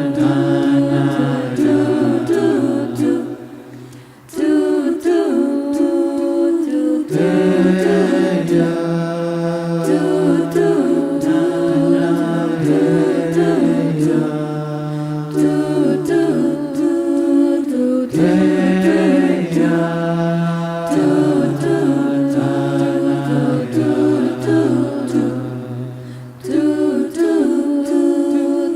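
A cappella vocal group singing in close harmony: low held bass notes under moving upper voices. Two short breaks between phrases come about four seconds in and near the end.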